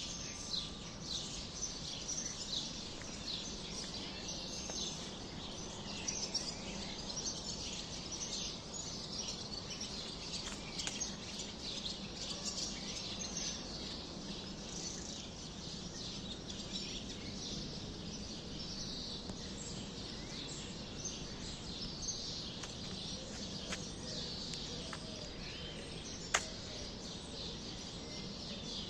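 A flock of sparrows chirping continuously, many overlapping short chirps, over steady background noise. One sharp click sounds near the end.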